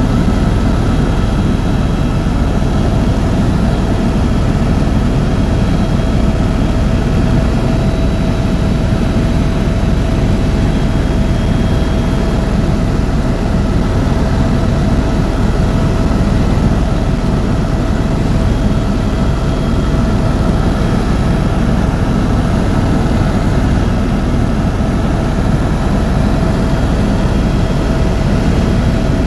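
Helicopter in flight: a loud, steady drone of rotor and turbine engine, with faint constant whining tones over it.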